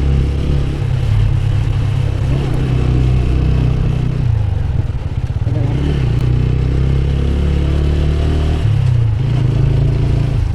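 Motorcycle engine running steadily while the bike is ridden, a continuous low drone whose pitch rises and falls briefly about six seconds in.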